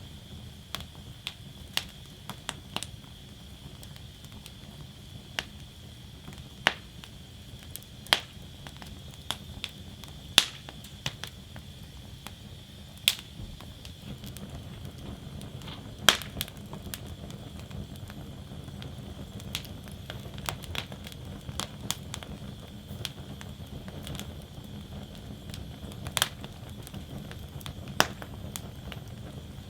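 Wood fire burning in a fire basket: irregular sharp crackles and pops over a steady low rumble of flames, with a few pops much louder than the rest.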